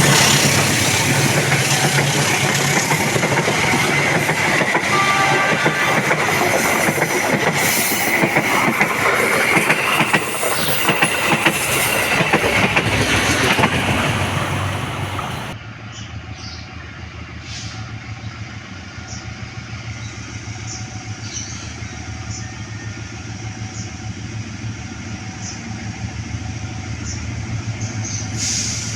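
Train wagons rolling past over the rails: a loud rushing clatter with a steady high whine above it. About halfway through the sound drops abruptly to a quieter, steady rolling rumble with faint light ticks.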